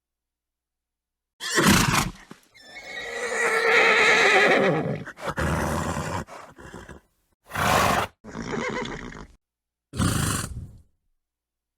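Horse snorting and whinnying: a short snort, then a long whinny of about two and a half seconds that trails off into rougher breathy calls, then more short snorts, with clean gaps of silence between them.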